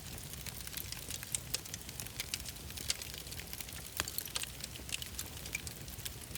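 Wood fire crackling: irregular sharp crackles over a low steady rumble of the flames, with one louder pop about four seconds in.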